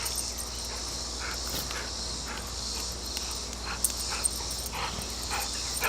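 Yellow Labrador retriever's short, irregular breathing noises, a string of quick huffs, over a steady chorus of crickets.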